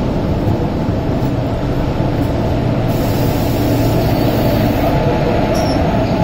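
Passenger train running along the track: a steady, even rumble of the coach and wheels.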